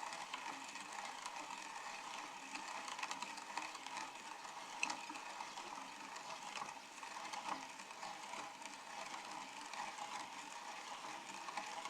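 Meat grinder grinding M&M's candies: a steady mechanical churning with many small clicks and cracks of the candy shells breaking.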